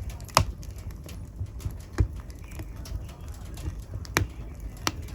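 Wood fire burning in a fireplace, crackling steadily, with sharp pops about half a second in, at two seconds, and twice near the end.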